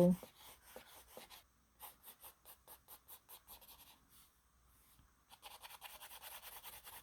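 Pencil strokes scratching on sketchbook paper: a run of short strokes about four or five a second, a pause of about a second, then rapid, dense shading strokes through the last couple of seconds.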